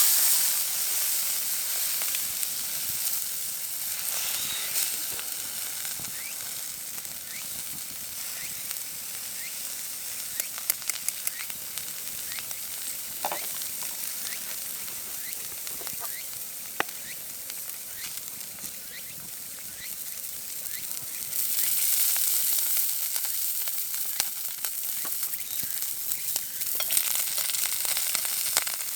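Food sizzling and frying on an iron griddle over a campfire, a steady hiss with scattered small pops of spitting fat; the sizzle swells louder for several seconds near the end.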